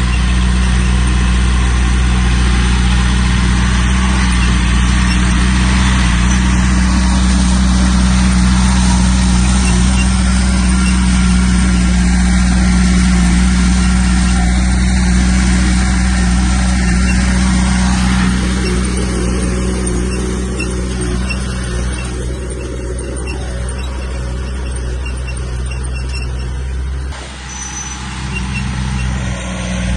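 Heavy diesel engines of earthmoving machinery, a bulldozer and dump trucks, running steadily under work. The sound changes and eases a little about two-thirds of the way through, with a brief dip near the end.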